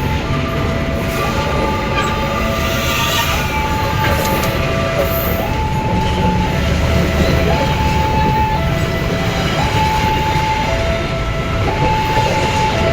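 Train running past with a heavy low rumble. Over it, a level-crossing warning signal sounds a steady two-note electronic alarm, switching between a higher and a lower note about once a second.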